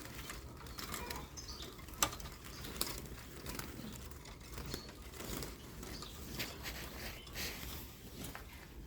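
A small songbird fluttering and scrabbling, with scattered light clicks and rustling and a few faint high chirps.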